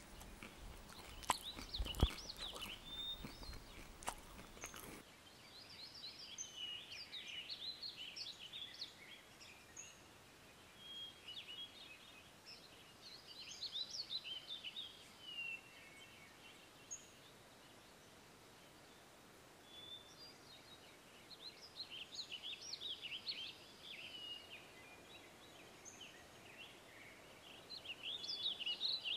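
A small songbird singing in phrases of quick, jumbled chirping notes, each a few seconds long, recurring every several seconds. A few sharp knocks and a low rumble come in the first seconds.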